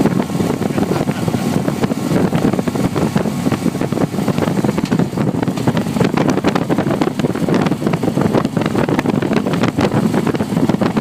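Steady, loud wind buffeting the microphone while cycling, a continuous rumble with irregular gusts.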